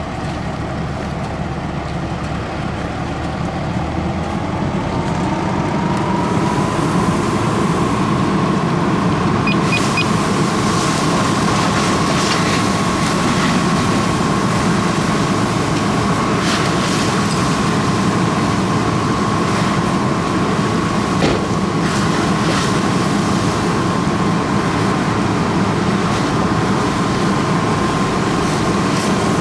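Fire engine running at a vehicle fire, with steady mechanical noise. A high whine rises in pitch over a few seconds early on, then holds level.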